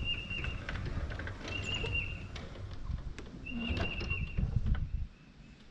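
A bird's high whistled call, one short note dropping slightly at its end, repeated about every two seconds over a low outdoor rumble.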